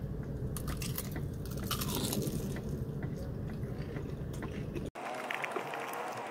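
Biting and chewing crispy-coated fried chicken: a quick run of sharp crunches from the batter, which stops abruptly about five seconds in.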